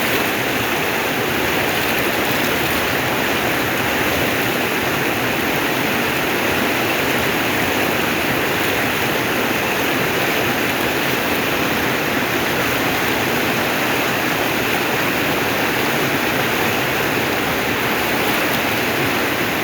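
Waterfall pouring, a steady rush of falling water with no break or change.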